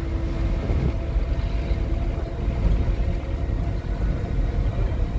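Scania N230UD OmniCity double-decker bus under way, heard from on board: its five-cylinder diesel engine running steadily under a deep, constant road rumble. A faint steady whine sits in the rumble and fades out about half a second in.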